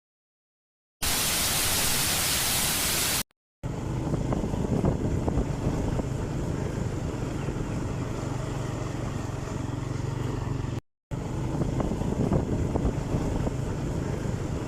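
A loud, even hiss for about two seconds, then, after a brief cut, a steady rush of wind noise over a vehicle engine running with a low steady hum, broken by another short cut near the end.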